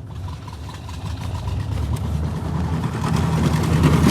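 Car engine running and getting steadily louder, as if being revved or driven harder. In the first couple of seconds it is joined by a faint, evenly repeated beep.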